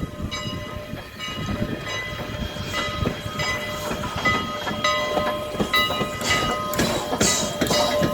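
Canadian National 89, a 2-6-0 steam locomotive, running past. A ringing tone repeats in even strokes, typical of its bell, over steady low clatter. From about halfway through, sharp hissing exhaust chuffs get louder, in beats about half a second apart.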